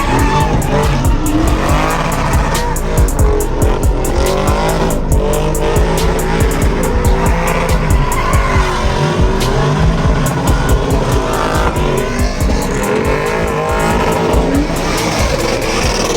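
Truck engine revving hard and tyres squealing during a burnout, with music playing.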